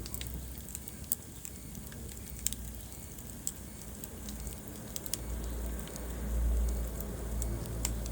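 Wood fire crackling in a fireplace: scattered sharp pops and snaps every second or so over a low rumble, which swells about six seconds in.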